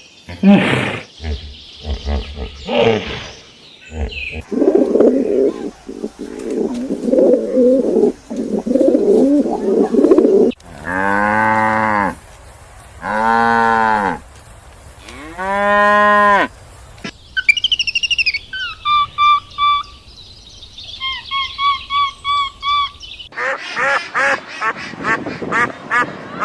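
A run of animal calls in quick succession: a noisy jumble of calls, then three long drawn-out lowing calls like cattle mooing, then a bird's high repeated chirps, and near the end a rapid string of short calls.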